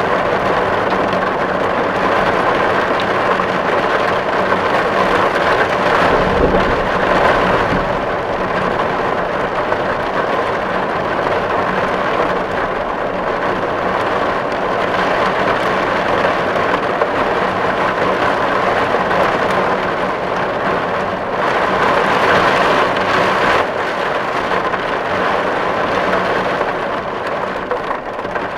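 Steady heavy rain drumming on a tin roof, the dense patter of drops on the metal sheet. A brief low rumble comes about six seconds in.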